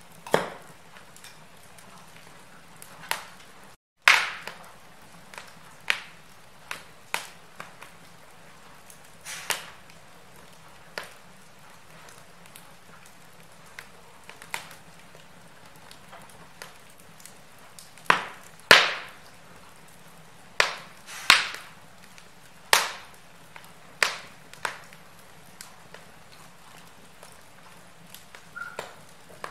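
Wood fire crackling in a fireplace: irregular sharp pops and snaps over a faint steady hiss, with the loudest pops bunched in the second half. The sound cuts out for a moment about four seconds in.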